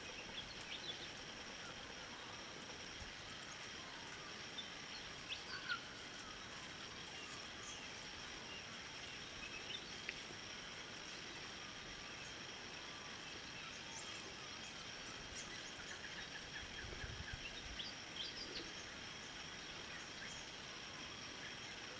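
Quiet rural outdoor background: a steady hiss with a scattered handful of short, faint bird chirps.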